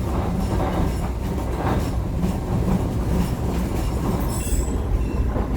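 Heritage passenger train rolling along the track, heard from on board: a steady rumble with irregular wheel clacks. There is a brief high wheel squeal about four and a half seconds in.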